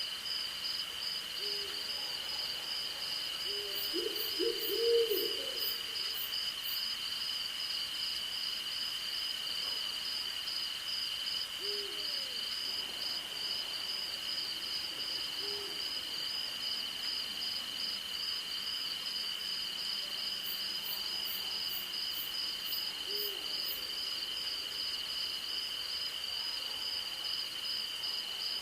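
Night chorus of crickets and other insects, one steady high trill with a faster pulsing trill above it, under an owl hooting now and then. The owl gives short low hoots, a quick run of them about four to five seconds in being the loudest sound, then single hoots spaced several seconds apart.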